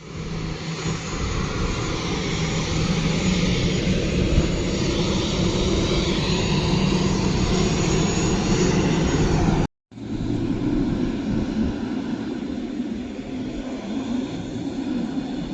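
Jet airliner engines during a departure: a steady, loud rush with a low hum. It breaks off abruptly for a moment about ten seconds in, then resumes.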